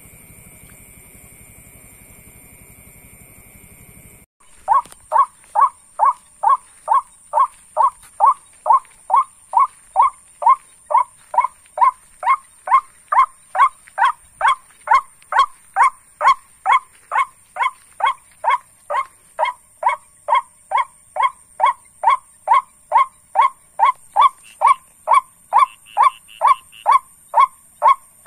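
Bird lure call for rice-field birds: one short call note repeated about twice a second in a steady, even rhythm, starting about four seconds in after a faint electronic hum.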